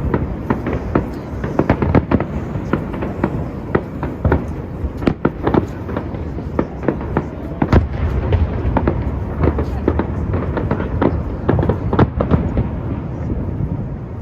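Fireworks display: a rapid, continuous barrage of bangs and crackles, many per second, over a low rumble.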